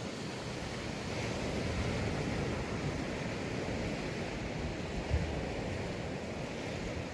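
Sea surf washing onto a sandy beach: a steady rushing that swells a little about a second in, with a brief low gust of wind on the microphone about five seconds in.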